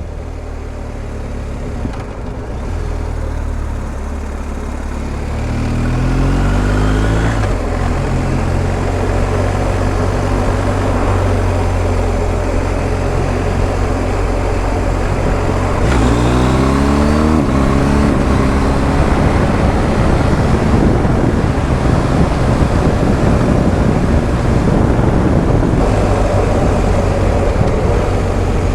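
BMW R1250 GS Adventure's boxer-twin engine pulling hard twice, each time rising in pitch and then dropping sharply at an upshift, over steady wind rush on the microphone.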